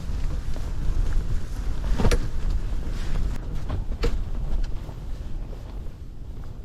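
Strong wind rumbling on the microphone and buffeting the ice shack, with two sharp knocks about two and four seconds in; it eases slightly near the end.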